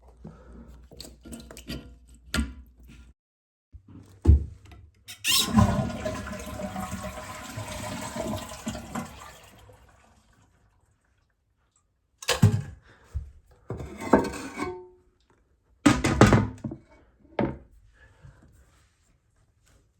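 Toilet flushing: a rush of water lasting about four seconds that fades away, with separate knocks and clatters before and after it.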